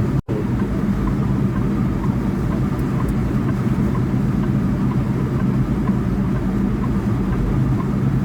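Semi-truck's diesel engine and road noise heard from inside the cab while driving, a steady low rumble, with a brief cut-out of the sound just after the start.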